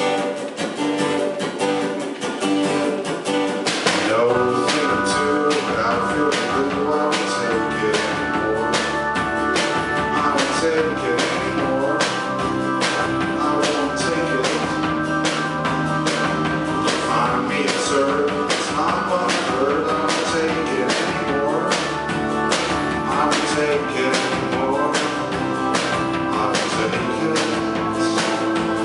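A band playing live, with guitar over a steady beat that fills out and gets louder about four seconds in.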